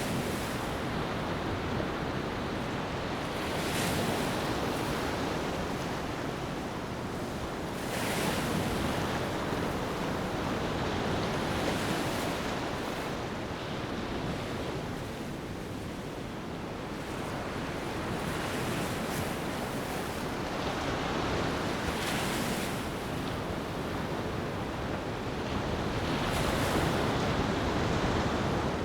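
Waves breaking and washing up a beach, a steady surf hiss that swells every few seconds as each wave comes in.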